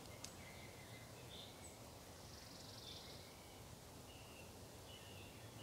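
Near silence: faint woodland ambience with a few short, high bird chirps and a brief faint buzz about two seconds in.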